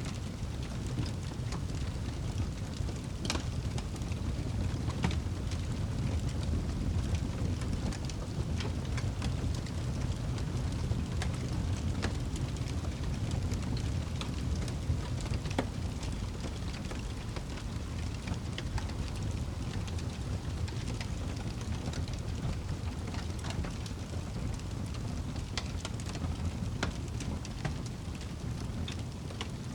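Fire burning in a fireplace: a steady low rush of flame with scattered crackles and sharp pops throughout.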